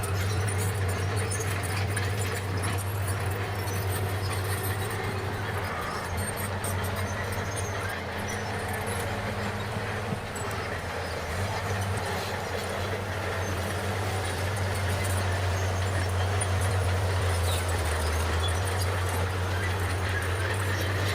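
Bulldozer's diesel engine running steadily with a low drone, with a constant metallic clatter over it.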